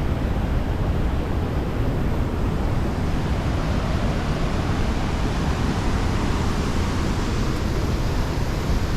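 Waterfall's water pouring and crashing in a steady, unbroken rush.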